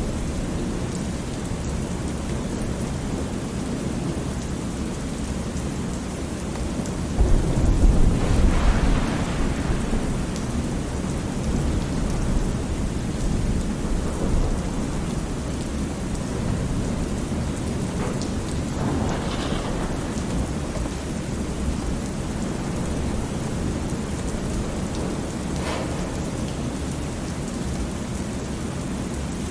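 Thunderstorm ambience: steady rain with rolling thunder. A louder, deeper rumble of thunder swells about a quarter of the way in, with fainter rumbles later.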